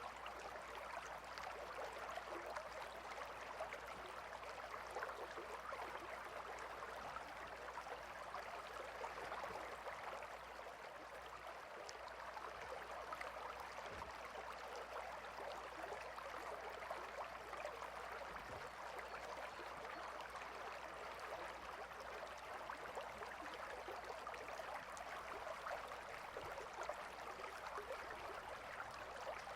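Gentle river flowing: a steady, soft babble of running water.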